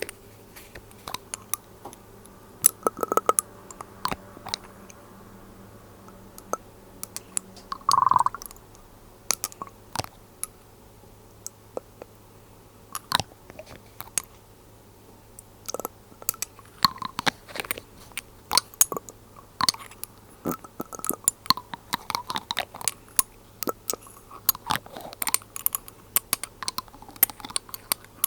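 Glass dropper bottles handled close up: irregular sharp clicks and taps of glass, droppers and lids, with a few brief ringing or squeaking tones. One louder short tone comes about eight seconds in.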